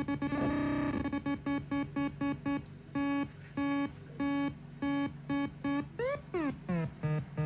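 MFOS Weird Sound Generator, a breadboard DIY synth built on CD40106 oscillators, putting out a buzzy electronic tone chopped into rhythmic beeps. The beeps come quickly at first, then slow to longer pulses about twice a second, and near the end turn into repeating rising pitch sweeps.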